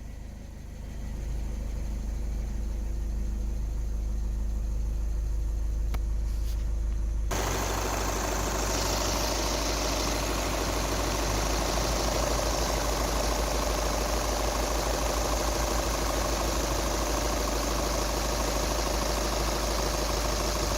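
Vehicle engine idling steadily on a test run. About seven seconds in, a loud even rushing noise suddenly joins it and carries on.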